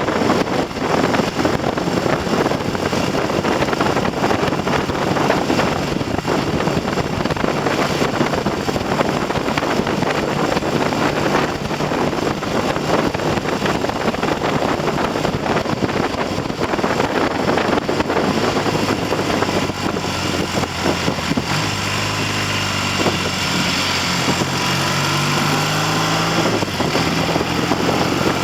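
Heavy wind buffeting on the microphone over a Triumph TR6's 650 cc parallel-twin engine riding along. About two-thirds of the way through the wind eases and the engine note comes through more clearly, its pitch shifting in steps as the bike slows. The engine is freshly rebuilt with new pistons and rings and is being run in at light throttle.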